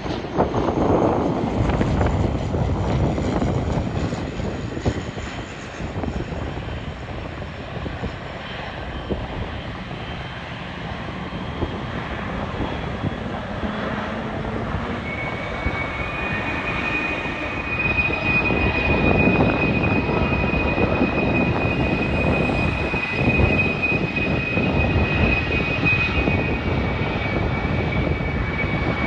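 Jet airliner's engines running as the aircraft passes, a continuous rumble that grows louder in the second half, with a steady high whine joining about halfway through.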